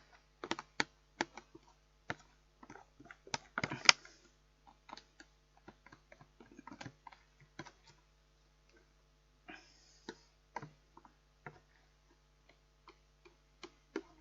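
A spoon scraping and tapping against a plastic microwave-meal tray and plate while scooping out the last of the food: irregular clicks and knocks, the loudest about four seconds in, with a short scrape near ten seconds.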